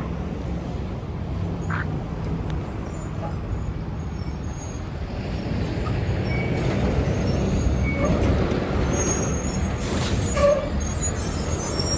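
Diesel transit bus running in street traffic, growing louder about halfway through as it comes closer, with a brief burst of air-brake hiss about ten seconds in.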